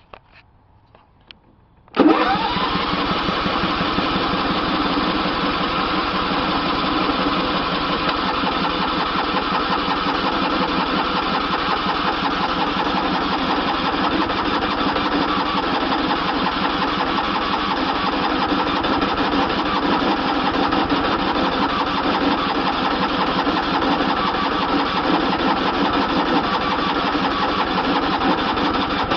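John Deere riding lawn mower's 14.5 horsepower overhead-valve engine cold-started without choke at about 44 °F. It catches almost at once about two seconds in, revs up quickly, and settles into a steady run.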